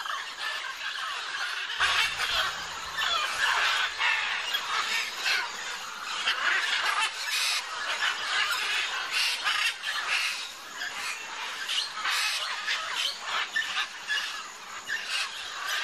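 A large flock of wild macaws squawking at once: a dense, unbroken chorus of harsh, overlapping screeches.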